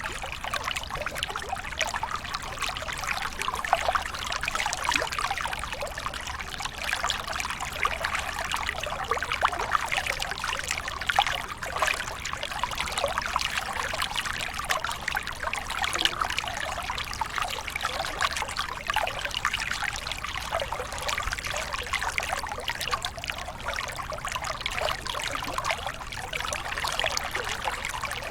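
Water pouring and splashing down a waterfall: a steady rush made of many small splashes, sitting mostly high with little deep rumble.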